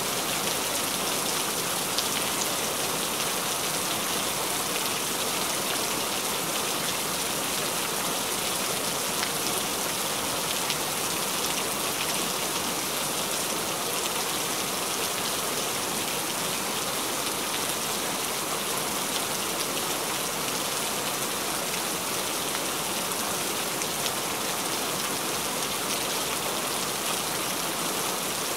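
Steady rain: a dense, even hiss with scattered faint ticks of single drops.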